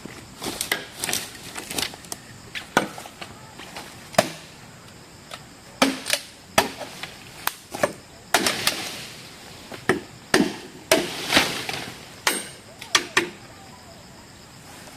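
Hand-tool work: an irregular run of sharp chopping strikes, some close together, with a short pause partway through.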